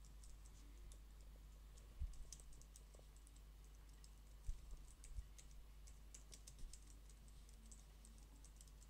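Quiet typing on a computer keyboard: a run of quick key clicks, with a few louder knocks, the first about two seconds in, over a low steady hum.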